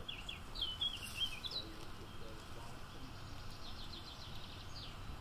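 Small birds singing: a quick warbling phrase of gliding chirps in the first second and a half, then a fast trill of repeated notes about three seconds in, over a steady low outdoor rumble.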